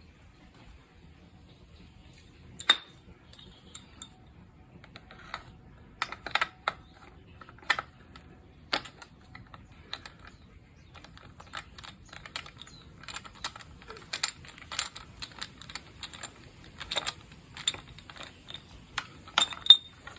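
Irregular light metallic clicks and clinks of hand tools and small metal engine parts being handled. A sharp click comes just under three seconds in, and the clicking grows denser and busier in the second half.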